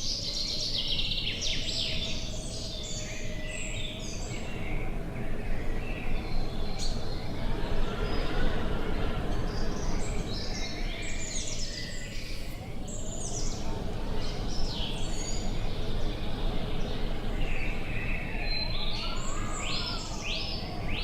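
Several wild birds singing in repeated chirping phrases over a steady low rumble of wind, with a quick run of evenly repeated notes near the end.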